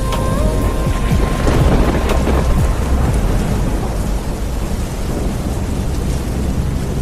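Steady rain with thunder rumbling underneath, and a louder crackling roll of thunder about one and a half to two and a half seconds in.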